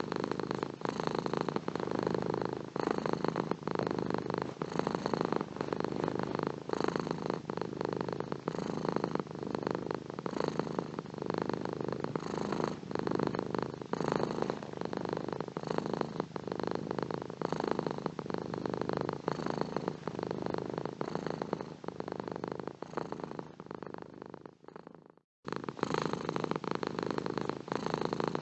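Domestic cat purring steadily. The purr fades and cuts out for a moment near the end, then starts again.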